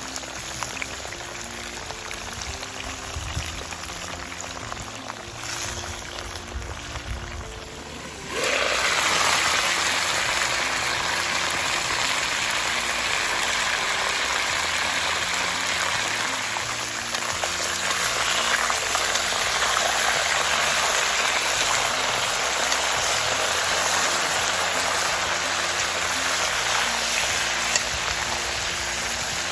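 Frying in a kazan over a campfire: a loud, steady sizzle starts suddenly about eight seconds in, after a fainter hiss. Background music plays throughout.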